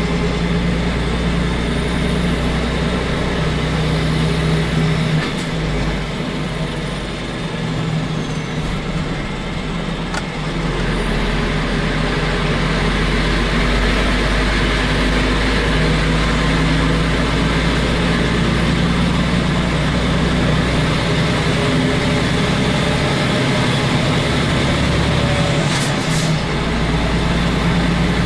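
Truck's diesel engine running under way, heard from inside the cab with the roof hatch open. The deep low rumble eases off twice, around five to ten seconds in and again near the end, then comes back.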